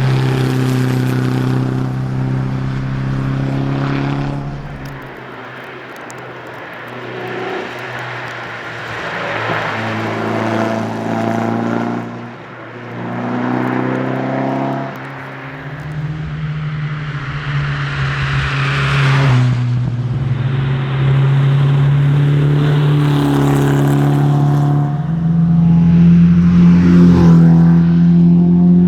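Renault Alpine A110's engine driven hard, its note stepping up and down with gear changes. About five seconds in it eases off for several seconds, then builds again and is loudest near the end.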